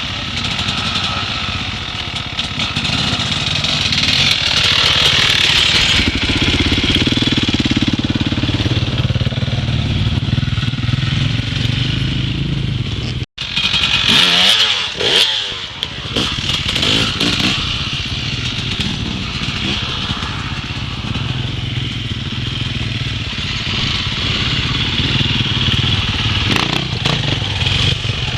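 Dirt bike engines running and revving. The sound breaks off for an instant about halfway, followed by a few quick rises and falls in engine pitch.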